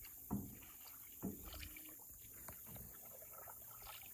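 Faint canoe paddling: a few soft paddle strokes and knocks, the clearest about a third of a second in and just over a second in.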